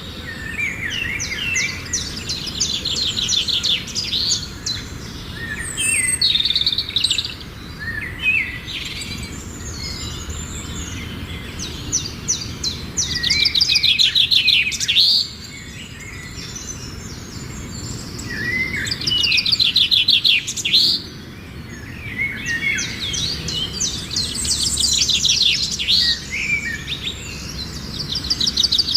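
Birds singing, repeated bursts of rapid, high chirping trills, each a second or two long, coming again and again with short gaps, over a steady low background rumble.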